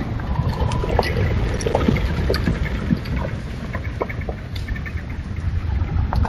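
A vehicle driving on a gravel logging road, picked up by a trail camera's microphone: a steady low engine and tyre rumble with scattered small crunches and pops.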